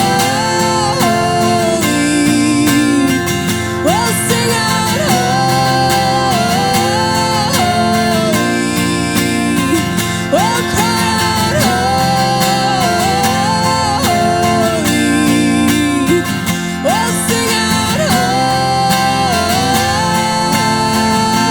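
Instrumental break in a live acoustic worship song: strummed acoustic guitar chords under a lead melody that slides up into its notes, the phrase repeating about every eight seconds.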